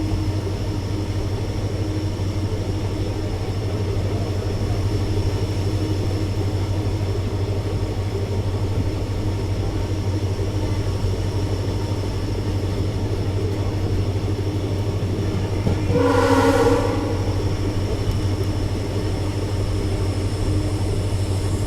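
Indian Railways WDP4D locomotive's EMD two-stroke diesel engine running steadily with a deep, even rumble. A short, loud pitched tone sounds once about three-quarters of the way through.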